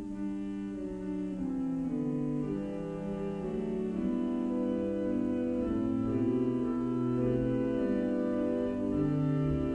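Slow instrumental music played on keyboard, held chords changing every second or so: the closing music of a church service after the benediction.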